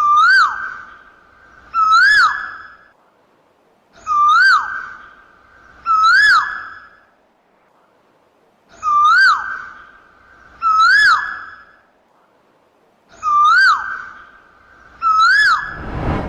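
A bird calling in pairs of loud whistled notes, each note a quick rise and fall in pitch that runs into a short held tone; four such pairs come about two seconds apart.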